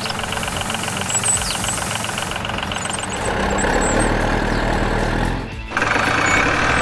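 Vehicle engine running steadily under background music; the sound shifts about three seconds in and drops out briefly near the end.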